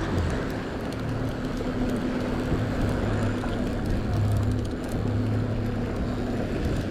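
Fishing boat's motor running steadily, with a low hum under a haze of wind and water noise.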